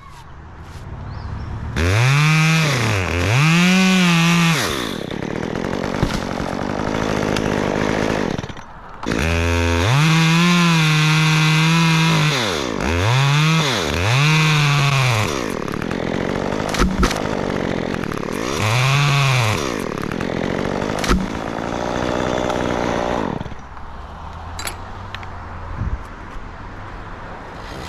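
A chainsaw revved again and again in short surges, its pitch climbing and falling back each time, with a lower running note in between. It is held at full speed for about two seconds a third of the way in, and there are a few sharp clicks later.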